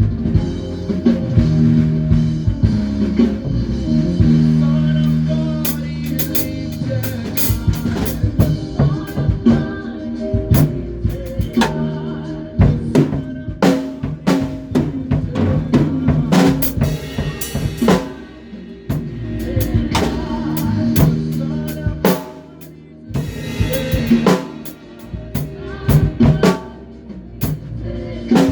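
Band rehearsal music: a drum kit playing snare, kick and cymbal strokes over sustained low bass notes.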